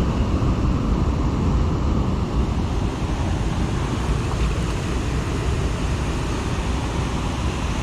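Steady rush of whitewater, an even, unbroken roar of falling and churning river water.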